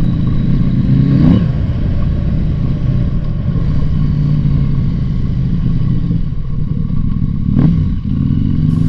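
Motorcycle engine running at steady revs under a rushing noise haze, with a brief rise in revs a little over a second in and again near the end.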